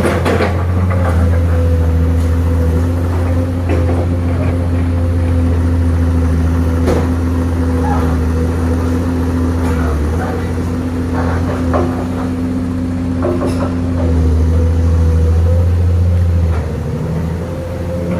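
Heavy truck's diesel engine running steadily at low revs, its deep hum swelling twice, with scattered knocks and rattles.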